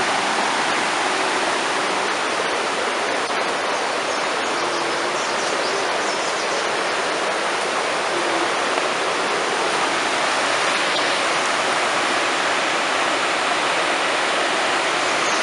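The Kurdzhips, a mountain river, rushing past: a steady, full rush of running water that holds the same level throughout.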